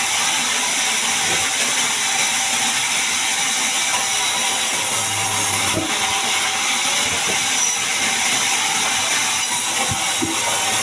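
Band sawmill cutting a large mahogany log: a steady, hissing, high-pitched saw noise with a few faint knocks.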